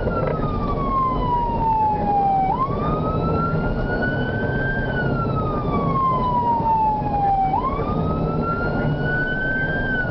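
Emergency vehicle siren on the wail setting, its pitch climbing and falling in slow cycles of about five seconds, over a steady low engine and road rumble.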